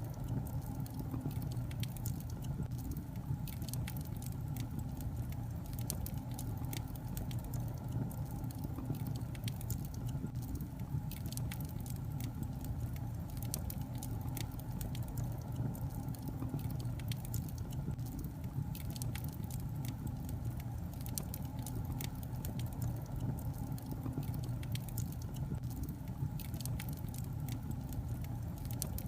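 Logs burning in a fireplace: a steady low rumble of the flames with frequent small, sharp crackles and pops scattered throughout.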